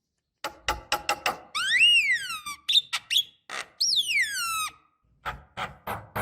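Javan myna (jalak kebo) singing: a run of sharp, harsh clicking notes, then two loud whistles that sweep up and fall away, then more harsh clicking notes near the end.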